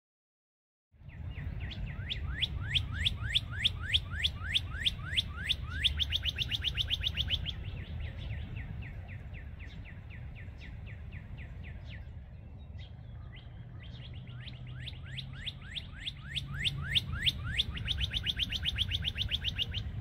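A small songbird calling in a fast run of short, sweeping chirps, about four or five a second, fainter through the middle and stronger again near the end, over a low steady rumble.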